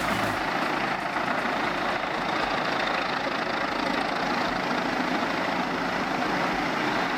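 A heavy machine's engine running steadily, an even mechanical drone with no clear changes in load.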